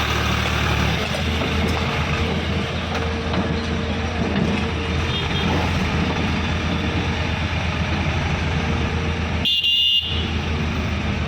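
Eicher tractor's diesel engine running steadily with a constant low hum. About nine and a half seconds in, a brief high tone cuts across it for about half a second.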